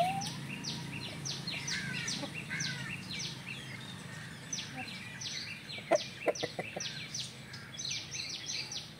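Birds chirping rapidly, each chirp a quick high downward sweep, two or three a second, over a low steady hum.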